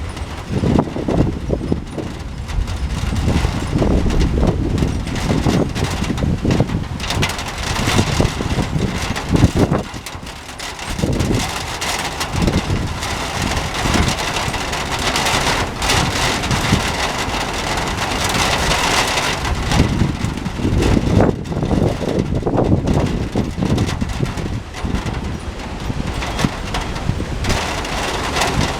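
Strong thunderstorm wind gusting and buffeting the microphone, with heavy rain hissing; the wind picks up about halfway through.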